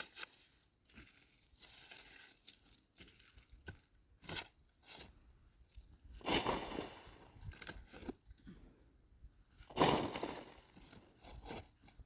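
Irregular crunching and rustling, with two louder crunches about six and ten seconds in.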